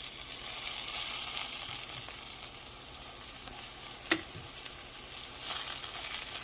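Lion's mane mushroom pieces sizzling as they fry and brown in a pan: a steady high hiss that swells and eases, with a sharp click about four seconds in.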